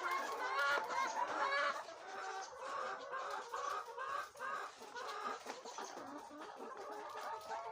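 A flock of laying hens clucking, many short overlapping calls.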